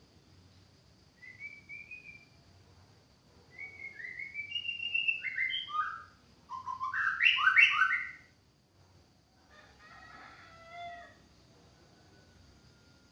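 White-rumped shama singing: a short whistled phrase about a second in, then a longer run of stepped, falling notes that builds to the loudest, fullest phrase around seven to eight seconds, and a fainter warbled phrase near the end.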